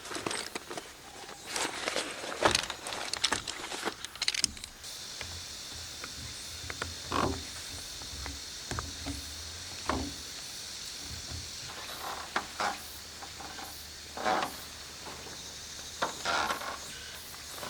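Camping gear being handled, with intermittent clicks, knocks and rustles. About five seconds in, a steady high-pitched insect drone, typical of cicadas, starts up and continues behind the handling noises.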